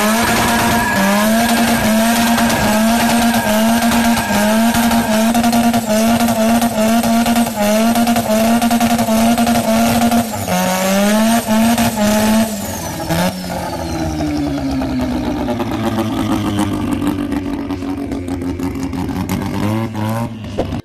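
A first-generation Mazda RX-7's rotary engine is held at high revs through a burnout, its pitch dipping and recovering about one and a half times a second, over spinning, squealing tyres. About 13 seconds in, the revs fall away and the engine runs lower and quieter.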